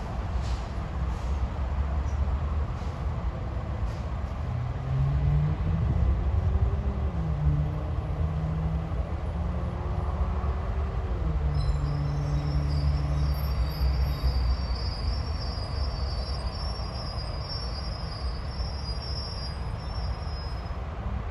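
RTD A Line electric commuter train (Hyundai Rotem Silverliner V multiple unit) passing over the crossing. A steady low rumble of wheels on rail runs throughout, with motor tones that step and glide in pitch through the middle, and a faint high thin whine in the second half.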